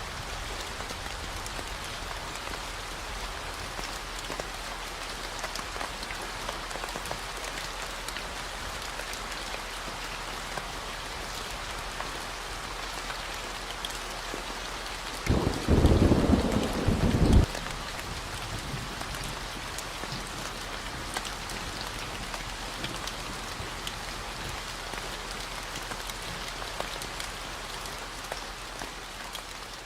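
Steady rain falling, under a constant low 40 Hz gamma-wave hum. Around the middle a roll of thunder rumbles for about two seconds, the loudest sound.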